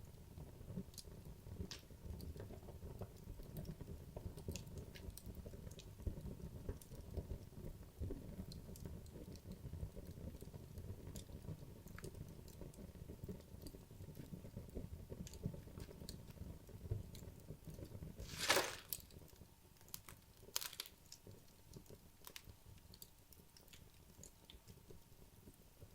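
Wood logs burning in a fireplace: scattered sharp crackles and pops over a low rumble of flame, with one louder, longer crack about two-thirds of the way through. After it the low rumble fades and only thin crackles remain.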